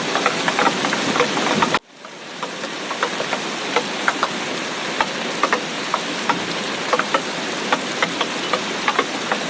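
Heavy rain: a steady hiss with many sharp, irregular drops tapping on a hard surface. About two seconds in the sound cuts out abruptly, then swells back up within about a second.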